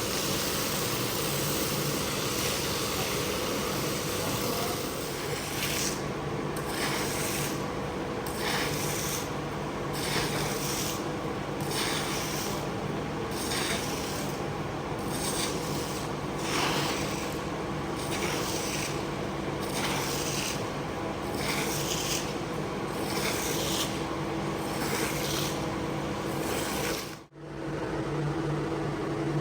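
Carpet being scrubbed in repeated rubbing strokes, about one a second, over a steady machine hum; everything drops out for an instant near the end.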